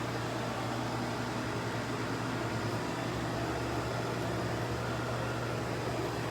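Steady low mechanical hum under an even hiss of background noise.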